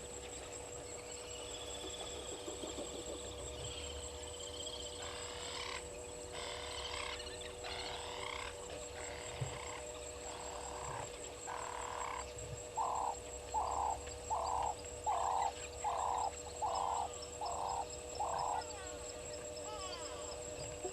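An animal at a waterhole calling: scattered notes that build into a series of about eight loud, evenly spaced calls, a little under a second apart, in the second half. A steady hum runs underneath.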